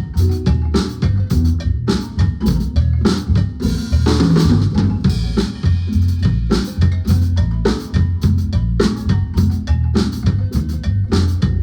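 Drum kit playing a steady beat of kick, snare and rimshots over a low bass line during a band's sound check, with a cymbal wash about four seconds in.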